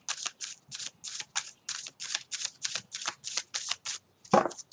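Tarot deck being shuffled by hand, cards slapping and sliding in a quick, even rhythm of about five strokes a second. A louder thump comes near the end.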